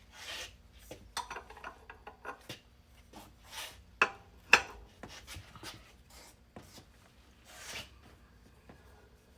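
Hand tools and metal parts being handled in a workshop: scattered clicks, a few brief scraping rubs, and two sharp knocks about four seconds in.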